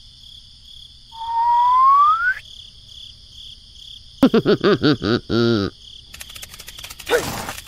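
Cartoon-style sound effects over a steady, pulsing cricket-like chirping ambience. A rising whistle comes about a second in, then a quick string of short, squeaky pitched sounds around four to six seconds in.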